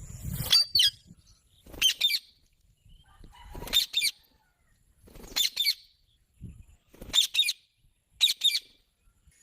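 A green parrot calling: short, harsh screeches, mostly in close pairs, repeated about six times at intervals of one and a half to two seconds.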